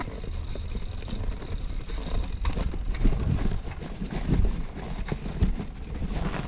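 Wind buffeting the microphone of a GoPro riding along on a bicycle, an uneven low rumble, with a few knocks and rattles from the bike over the ground.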